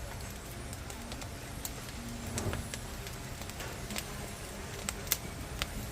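Firewood burning under a cast-iron cauldron, crackling with irregular sharp pops over a steady low rumble; the sharpest pop comes about five seconds in.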